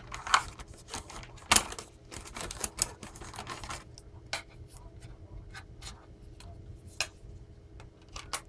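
A package being unpacked by hand: irregular rustling, scratching and clicking as wrapping and items are handled. It is busy for the first few seconds, then thins to a few scattered taps and clicks, over a faint steady room hum.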